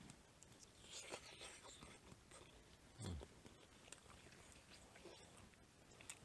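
Near silence with a few faint clicks and soft rustles, and one soft low thump about three seconds in.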